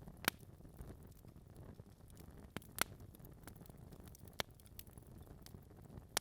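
Log fire in a fireplace crackling: a low, steady rumble of the flames with scattered sharp pops from the burning wood, three of them louder than the rest.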